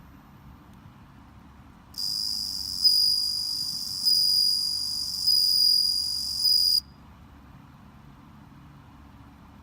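Japanese bell cricket (suzumushi) singing: a high, ringing trill that starts about two seconds in, swells louder about once a second, and stops abruptly some five seconds later.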